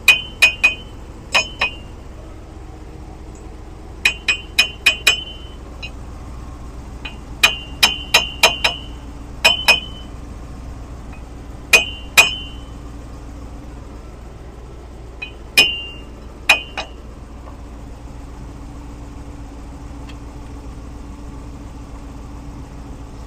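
Sharp metallic clinks of steel tools and hub hardware knocking together, each with a short bright ring, coming in small clusters of two to four every few seconds. A steady low hum runs underneath.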